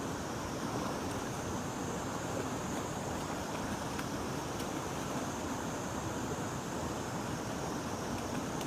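Steady rush of flowing river water, an even hiss without pauses, with a couple of faint ticks about four seconds in.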